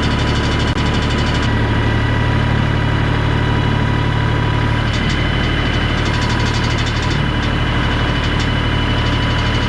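New Holland Workmaster 40 compact tractor's diesel engine running steadily, its note shifting slightly about a second and a half in.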